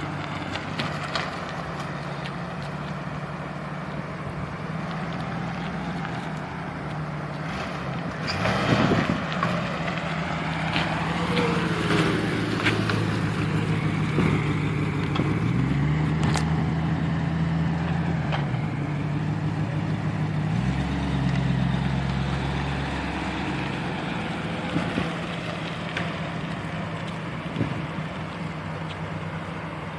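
1977 Lincoln Continental Town Car's V8 engine running, its note stepping up and down several times and loudest in the middle stretch. There is a brief loud rush about nine seconds in.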